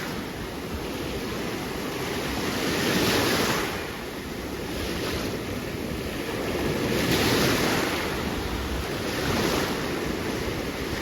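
Ocean surf washing onto a beach, swelling up every four seconds or so as waves break.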